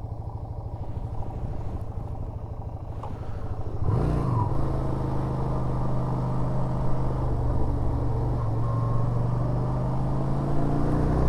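Yamaha SRV 250's V-twin engine idling. About four seconds in it revs up and the motorcycle pulls away, then runs at a steady pace.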